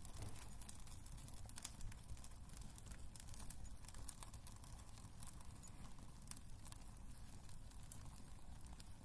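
Quiet wood fire crackling in a fireplace: irregular small pops and snaps over a steady low rumble of the burning logs.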